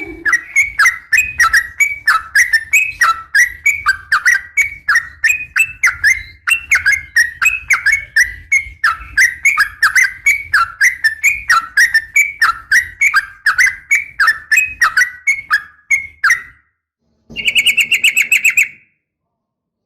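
Yellow-vented bulbul (trucukan) calling: a fast, chattering run of short notes, each sweeping downward, about four a second. The calling stops about 16 seconds in, and a brief buzzy trill of about a second and a half follows near the end. The uploader offers it as a female calling to a male.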